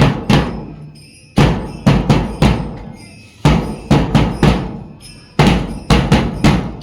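Drums beating in a repeating pattern: a cluster of about four deep strikes roughly every two seconds, each cluster fading before the next.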